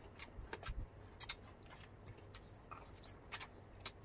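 Close-miked eating sounds: chewing with irregular small crisp clicks and mouth smacks.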